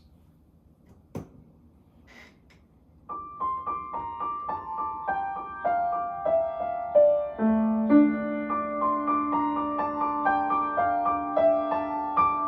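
Piano introduction to a song: after a single click, a steady run of quick notes starts about three seconds in and steps downward, with low held bass notes joining about halfway through.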